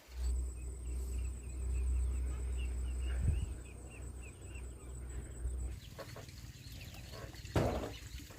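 Outdoor insect and bird sounds: a steady high insect buzz with short bird chirps repeating about three times a second, over a low rumble. All of it stops abruptly about six seconds in, and a single thump follows near the end.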